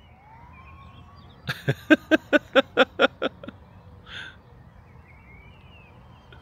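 A dog barking in a quick run of about eight yaps, starting about one and a half seconds in, with faint bird chirps behind.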